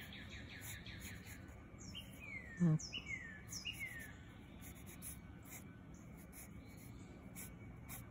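Birds chirping faintly: a few short falling chirps between about two and four seconds in, over a steady outdoor background hiss, with one brief vocal murmur in the middle.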